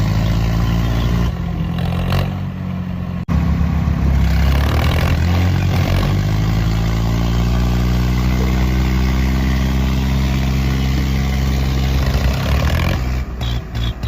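Diesel tractor engine running loud, with an abrupt break about three seconds in. Then the engine revs up, its pitch rising steadily over several seconds and holding high before dropping off near the end.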